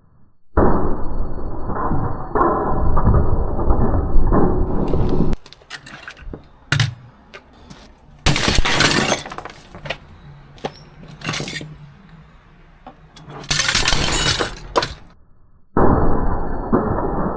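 Hammer smashing an appliance apart: loud breaking and crunching of casing, with clattering knocks between the blows. Two bursts in the middle are the loudest and sharpest, while the stretches near the start and end sound muffled.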